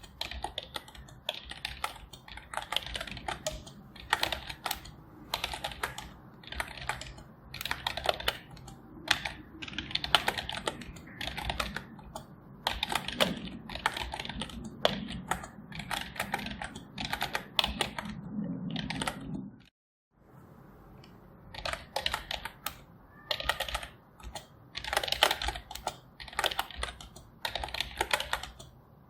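Typing on a computer keyboard: rapid runs of key clicks in uneven bursts with short pauses, cutting out to silence for a moment about two-thirds of the way through.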